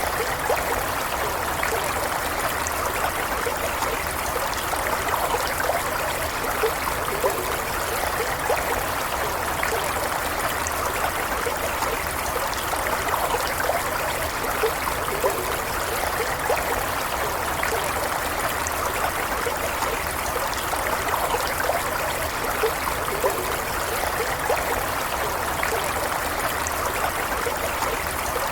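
Small stream running steadily over stones, a continuous trickling and babbling with many small splashes and gurgles.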